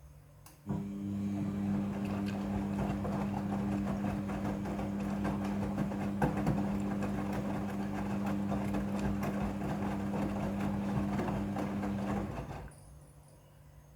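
Midea front-loading washing machine running: a steady mechanical hum with a busy rattle over it switches on abruptly about a second in and cuts out near the end.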